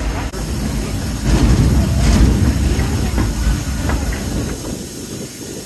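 Zoo shuttle tram moving, heard from on board: a steady low rumble of its running gear and carriages with a light hiss. It grows louder about a second in, then eases off near the end.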